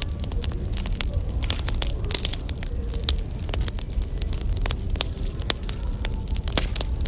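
Wood fire crackling, with many sharp irregular pops and snaps of burning firewood over a low steady rumble.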